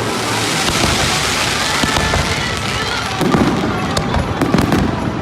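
Fireworks going off in a display: a dense crackle of small bursts, with heavier bangs from about three seconds in.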